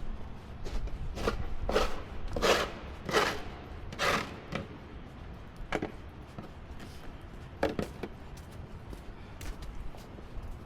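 Footsteps crunching in snow: about six quick steps in a row, then a few scattered ones, over a low wind-like rumble.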